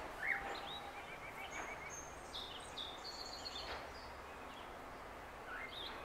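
Faint, scattered bird chirps and a few short trills over a steady outdoor background hiss.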